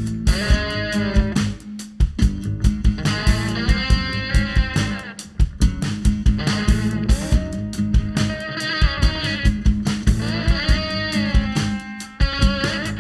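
Rock band playing an instrumental passage, with no singing: electric guitar lines that bend in pitch over a steady drum beat and upright bass.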